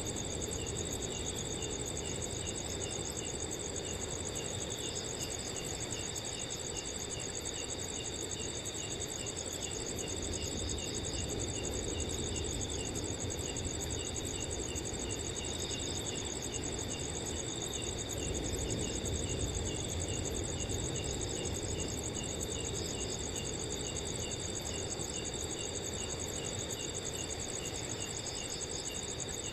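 Several crickets chirping together in a steady chorus: a continuous high trill, with one cricket's chirps repeating evenly at about three a second. Underneath, a low rush of wind rises and falls gently.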